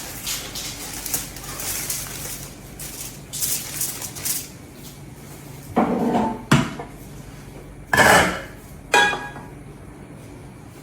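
Kitchen dishes and utensils clattering: light scrapes and clinks, then several louder knocks and clatters in the second half, one with a brief ringing clink.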